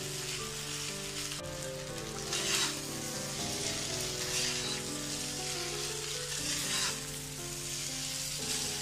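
Egg noodles sizzling in a wok over a high gas flame while a spatula tosses and stirs them, with a louder stirring swish every couple of seconds.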